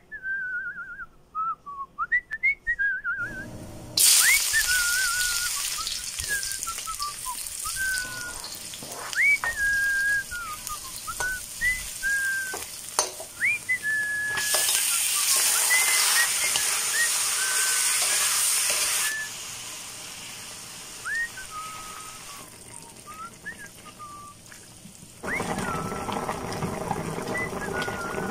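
A whistled tune plays throughout over the sizzle of pork, onions and chillies frying in a wok. The sizzle starts about four seconds in, grows louder and then drops in steps, and is quiet for a short stretch near the end before it comes back.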